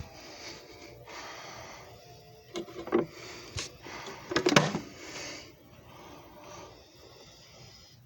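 A few sharp clicks and knocks of objects being handled, loudest about four and a half seconds in, over faint background noise.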